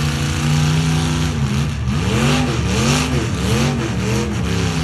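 Demolition derby truck engines running loud, with one revved up and down several times in quick surges from about a second and a half in.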